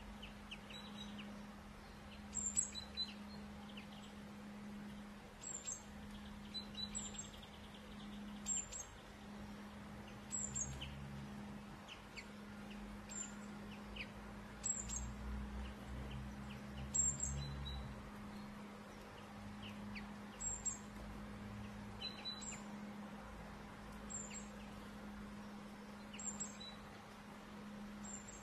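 Small songbird giving short, high-pitched chirping calls every second or two, over a steady low hum.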